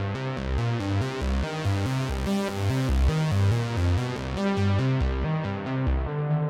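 Behringer Poly D analog synthesizer playing a fast, repeating run of short bass notes that change pitch several times a second. The filter opens to a brighter sound through the middle and closes down again near the end.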